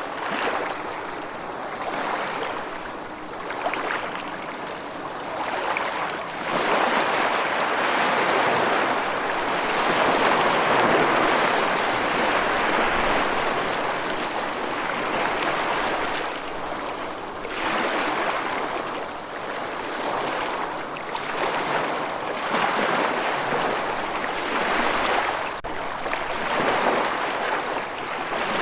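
Ocean waves washing in, a continuous rushing noise that swells and ebbs every several seconds.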